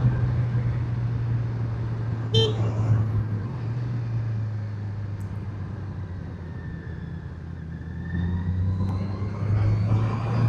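Motorcycle engine running steadily under way, with a steady rushing noise, and a brief horn toot about two seconds in.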